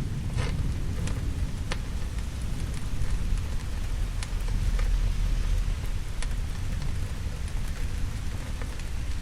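Steady rain with a low rumble of thunder underneath. A few sharp pops of a crackling wood fire sound now and then.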